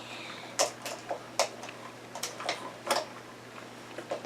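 Irregular light clicks and taps, about eight in all, from small plastic toy monster trucks being handled.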